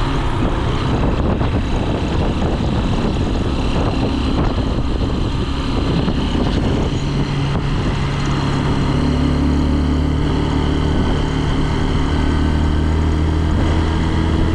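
Honda CRF150L's single-cylinder engine running steadily while riding, under a constant rush of wind and road noise. Its steady engine note comes through more clearly from about halfway through.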